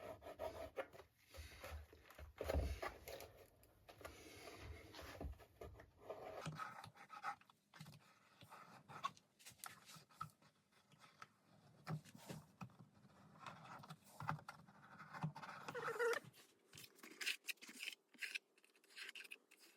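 Faint handling noises while glue is worked into a joint of a wooden model boat kit: scattered small taps, clicks and scrapes of the parts and the glue bottle.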